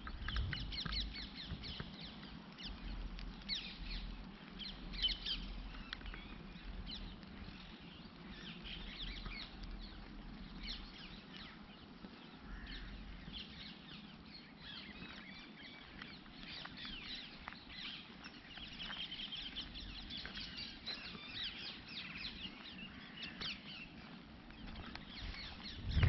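Small countryside birds chirping and twittering: many short, high calls in quick, irregular succession, over a steady low rumble.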